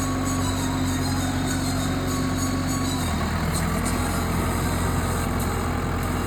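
Tractor engine running steadily, its note dropping slightly about three seconds in.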